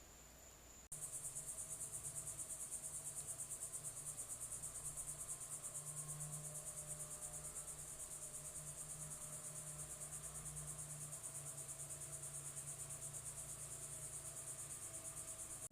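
Insects calling in a steady, high-pitched trill of rapid, even pulses. It starts abruptly about a second in.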